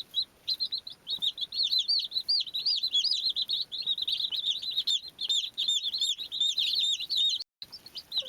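A brood of baby chicks peeping: many short, high, overlapping chirps in a continuous chorus, broken by a brief total silence about seven and a half seconds in.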